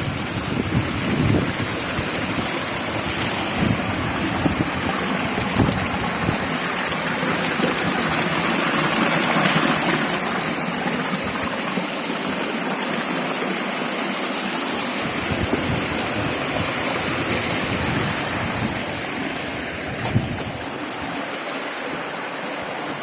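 Rushing water of a flowing stream, a steady hiss, with wind buffeting the microphone at times.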